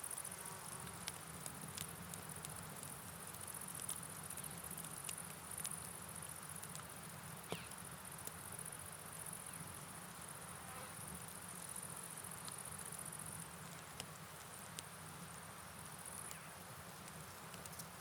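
Steady rain and river ambience at a low level, with scattered sharp clicks and a continuous high insect trill that fades about three-quarters of the way through.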